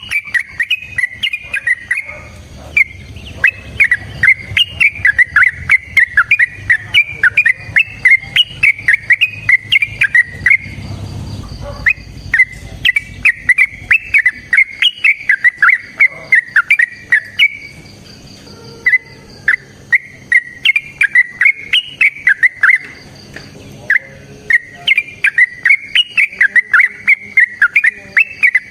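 Yellow-vented bulbul (trucuk) singing long runs of rapid, bubbly chattering notes. The runs last from a couple of seconds to about eight seconds, broken by short pauses. A faint steady insect buzz sits behind the song.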